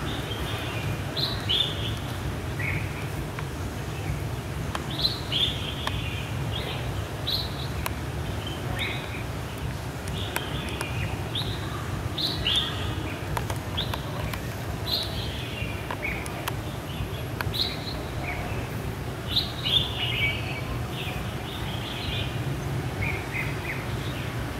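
Small birds chirping: short, high, downward-slurred notes in scattered clusters, over a steady low background hum.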